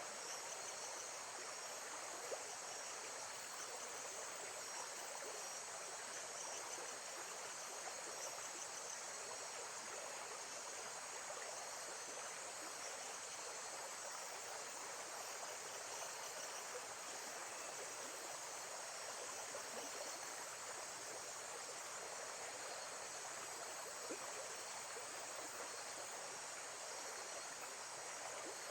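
Steady rushing water from a lake-side nature recording, with a continuous high chorus of insects chirping over it.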